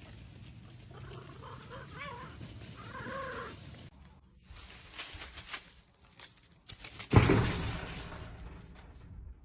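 Two or three short animal calls with a rise and fall in pitch. After a cut come scattered clicks, then a sudden loud thump about seven seconds in that fades over a second.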